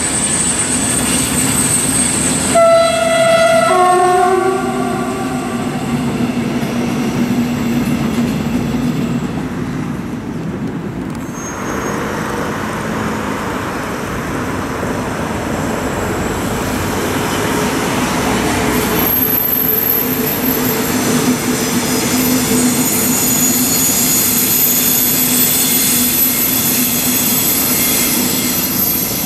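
Electric-locomotive-hauled double-deck regional trains running across a concrete railway flyover, the steady running noise carrying on with changing texture as one train gives way to the next. About three seconds in, a two-tone train horn sounds: a higher note, then a lower one, together lasting about two seconds. In the second half a steady high whine sits over the running noise.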